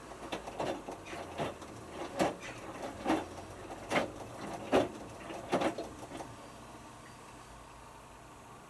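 Hotpoint Futura HF8B593 washing machine drum tumbling a small load of three T-shirts, swishing about every 0.8 seconds. The tumbling stops about six seconds in as the drum pauses, leaving a low hum.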